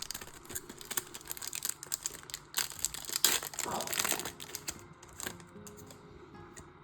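Foil wrapper of a Yu-Gi-Oh booster pack crinkling and tearing as it is handled and opened, a dense run of crackles that dies down about five seconds in.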